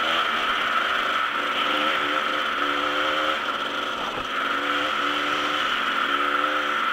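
Dirt bike engine running while riding. Its note comes and goes and shifts in pitch as the throttle is worked, under a steady loud rushing hiss.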